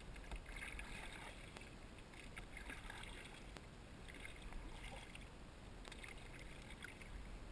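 Faint water sounds around a kayak on a river: soft irregular splashing and lapping of paddle and hull on the water, with a few small clicks.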